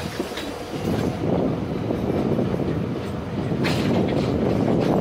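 Passenger train coach running on the rails, heard from the moving coach: a steady rumble of wheels on track, broken by a few sharp clacks over rail joints.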